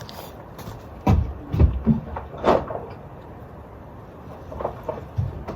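A handful of short knocks and clicks from handling small engine parts while unscrewing the carburetor cap of a bicycle engine kit. There are four sharper ones between about one and two and a half seconds in, then a few softer taps near the end.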